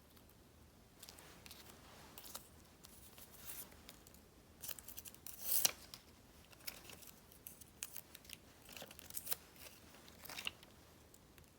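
Scissors snipping paper: a string of short, crisp cuts at an uneven pace, with light paper rustling between them; the loudest cut comes about halfway through.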